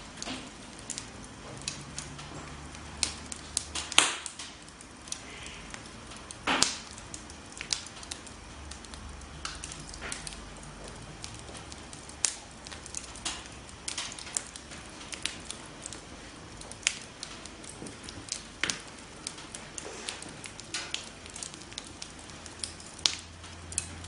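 Wood campfire burning with a steady low hiss and frequent sharp, irregular crackles and pops, a few louder snaps standing out.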